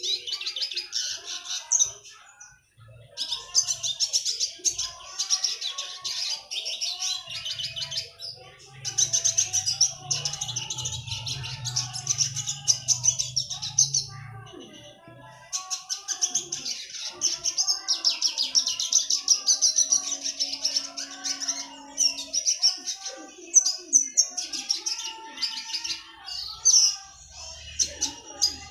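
A songbird giving a fast, tightly packed high chattering call in long bouts, the 'sepek rapat' run of notes that bird keepers play to teach caged birds. The bouts break off briefly about 2 s, 8 s and 15 s in, and softer, lower warbling notes run beneath them.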